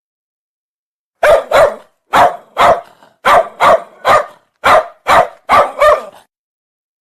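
A dog barking: about ten short barks, mostly in quick pairs, starting about a second in and stopping about a second before the end.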